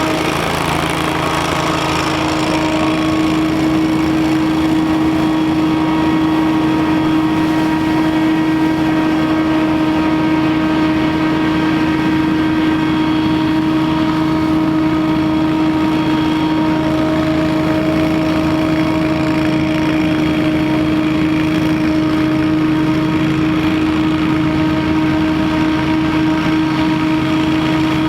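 Scag Windstorm stand-on debris blower running steadily at speed, its engine and fan giving a loud, constant hum with a strong steady pitch. The owner thinks it has a 37-horsepower Vanguard engine.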